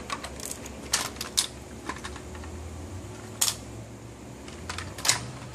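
Plastic clicks and taps of a Lego train and its parts being handled and opened up, a few irregular sharp clicks.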